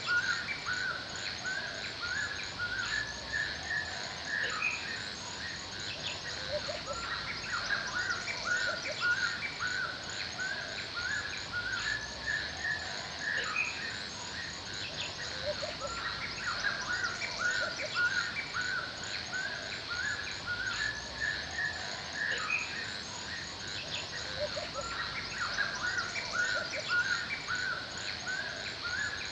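Forest ambience: many songbirds chirping in quick, repeated short phrases that go on without a break, over a steady high insect trill.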